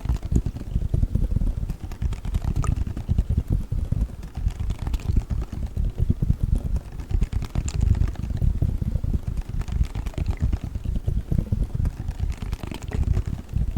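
Gel cold pack handled rapidly close to the microphone: a fast, dense run of dull low thuds and squishes with a few sharper clicks.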